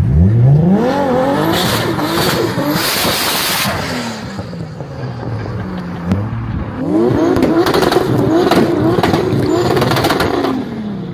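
Toyota Supra MK4's 2JZ-GTE inline-six revving hard: the pitch climbs sharply at the start and wavers at high revs, with loud hissing bursts a couple of seconds in. It eases off, then climbs again about six and a half seconds in, holds high with a wavering pitch, and drops near the end.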